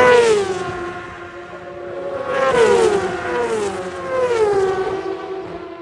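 MotoGP racing motorcycles going by at full speed, the engine note of each dropping in pitch: one right at the start, then three more in quick succession.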